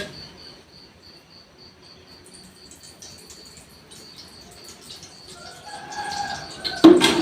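Cricket chirping steadily, a short high chirp about four times a second. Near the end a faint drawn-out call rises, and a sharp knock comes just before the close.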